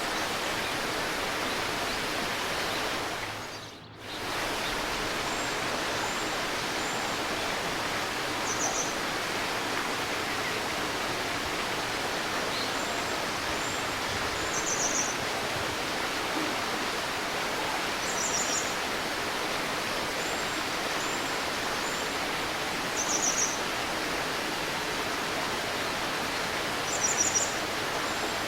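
Steady rushing murmur of a stream with small birds giving short, high chirps and brief trills every few seconds. The water sound dips briefly and swells back about four seconds in.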